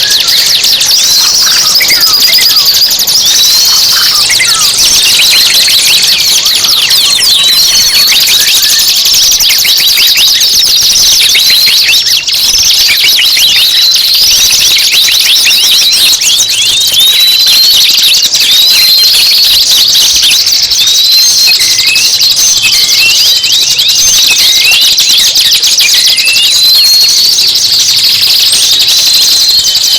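Dense, loud songbird song: rapid high-pitched chirps, trills and short rising whistles, one phrase after another almost without a break. It is a masteran recording, song played to captive songbirds for them to learn.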